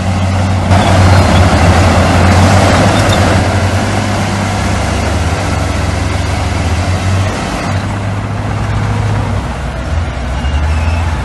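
Heavy diesel earthmoving machinery running steadily with a deep engine drone. A louder rushing, grinding noise rises over it for a couple of seconds near the start, then eases.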